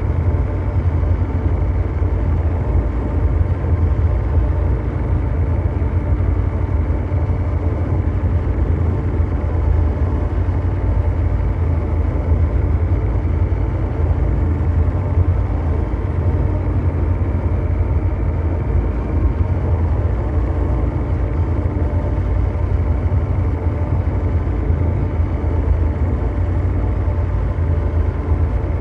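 Synthetic ambient mechanical drone: a steady, deep rumbling hum, heaviest in the bass, with a dense noisy layer above it and nothing changing throughout, like a huge engine running continuously.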